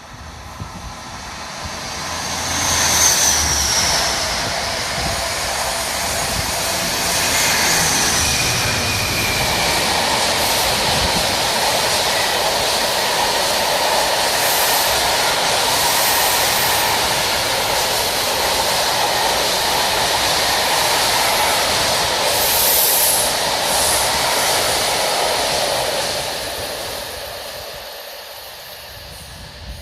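Class 66 diesel locomotive and its freight wagons passing: the approach swells in over the first few seconds and a long steady rumble of wagons follows, then dies away near the end. Brief high wheel squeals come a few seconds in.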